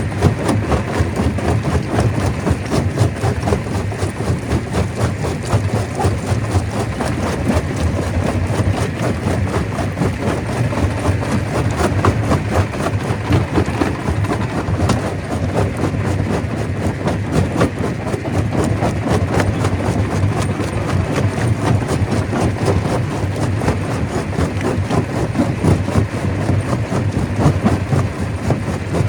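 Stone crusher running and crushing rock: a steady low mechanical rumble under a dense, irregular clatter of stone knocking and grinding.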